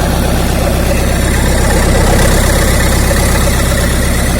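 Nissan FD42 diesel engine with a mechanical injection pump idling steadily on its first start, still cold. It runs without any unusual noises.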